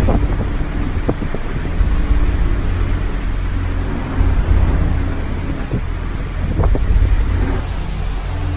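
Deep, steady rumble with a low hum from a cruise ship rolling in a storm, with a few sharp knocks or creaks from the ship's structure.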